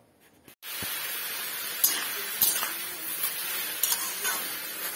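Jujubes sizzling in a metal wok over a gas flame, a steady hiss that starts suddenly about half a second in, with a spatula clinking and scraping against the pan a few times as they are stirred.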